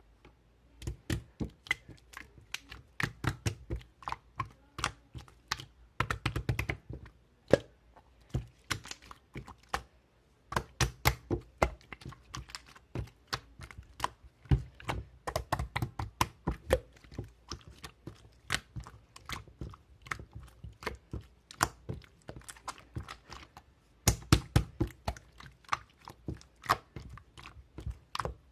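Typing on a computer keyboard: irregular runs of quick key clicks, with a short pause about ten seconds in and a faster run near the end.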